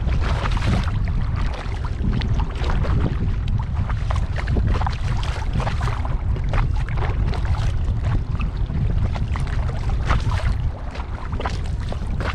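Water splashing and lapping around a kayak as it is paddled, in short irregular splashes, over a steady low rumble of wind on the microphone.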